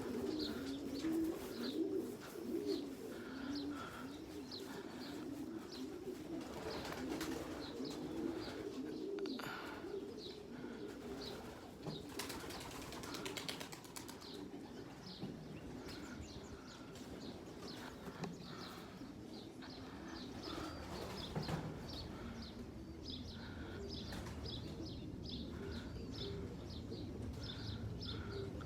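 Young racing pigeons cooing and flapping their wings as they leave the opened loft, with short high chirps repeating throughout. The cooing is strongest in the first few seconds; bursts of wing flapping come around a quarter and a half of the way through.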